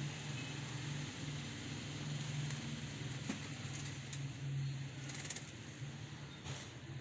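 Low, steady hum, pulsing slightly, with faint sounds of caged pigeons and doves and a couple of brief rustles about five and six and a half seconds in.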